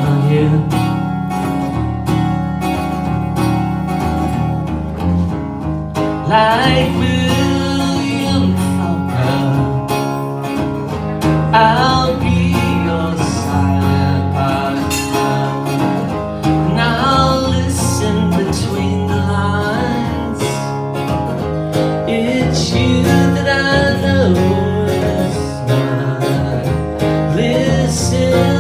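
Live band music with guitars over a steady bass line and no sung words; a lead melody with bending, sliding notes comes in about six seconds in.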